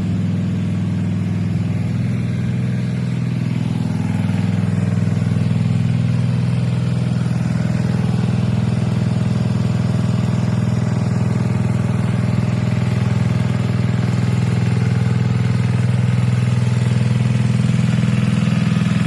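Gasoline-engine water pump running steadily while it sucks water out of a pool, getting a little louder after about four seconds. The engine is running on the last of its gasoline.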